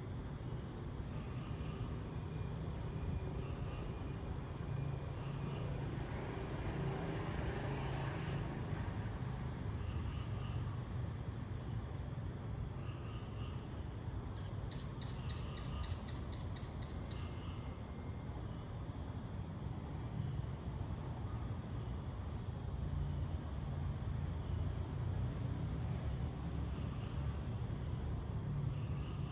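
Crickets chirping in a steady, finely pulsing high trill that never stops, over a constant low rumble. A soft swell of noise rises and fades about seven seconds in.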